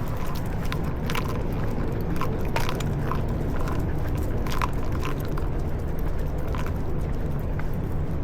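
Walking on pavement with dogs: scattered sharp clicks and taps of footsteps and claws, irregular at about one or two a second, over a steady low rumble.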